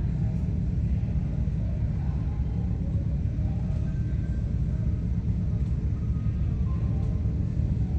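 Twin Pratt & Whitney R-1830 radial engines of a C-47 running steadily during warm-up, a deep, even rumble.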